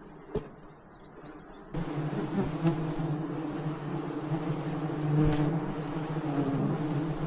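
A flying insect buzzing, beginning about two seconds in, with a steady hum whose pitch wavers slightly.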